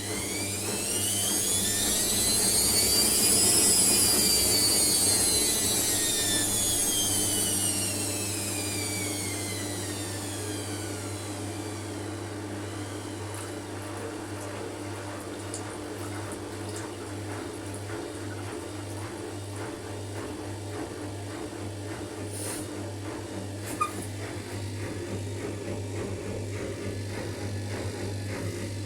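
Hotpoint washing machine's drum motor whining up in pitch as the drum speeds up for a spin, then winding down over several seconds. A steady low hum follows, with a single click near the end.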